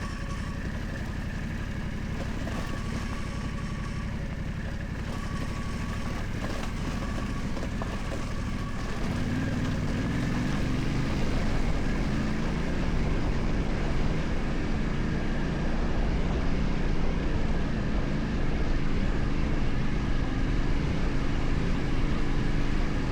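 Yamaha Ténéré 700's parallel-twin engine running while riding, with tyre and wind noise. The engine picks up and grows louder about nine seconds in.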